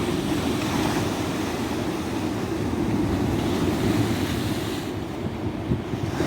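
Ocean surf washing onto a tropical beach: a steady rushing wash of waves. The higher hiss of the wash eases off about five seconds in.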